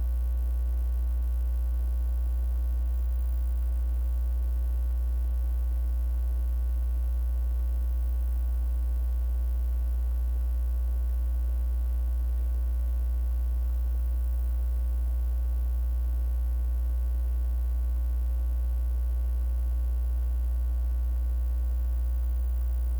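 Steady electrical mains hum in the sound system, a loud low buzz with a ladder of overtones that holds unchanged throughout; a fault in the audio feed such as a ground loop.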